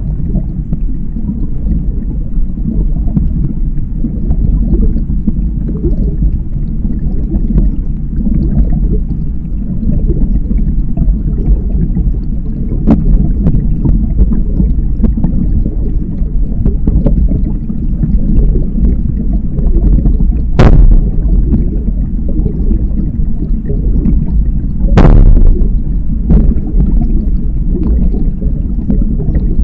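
Kayak paddling with wind buffeting the microphone as a loud, steady low rumble, and water moving under the paddle. Three sharp knocks stand out, the two loudest in the later half.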